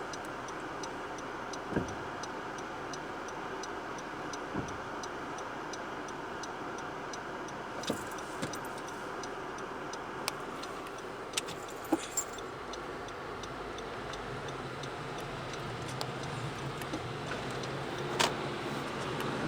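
Steady road and engine noise inside a moving car's cabin, with a faint regular ticking about twice a second and a few scattered sharp knocks.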